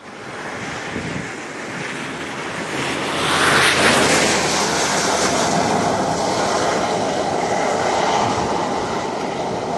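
Steady rushing wind and road noise in a storm-chasing vehicle, growing louder about three seconds in.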